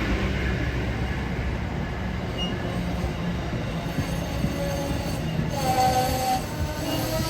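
A train running by with a steady low rumble; about five and a half seconds in, a train horn starts sounding held chords.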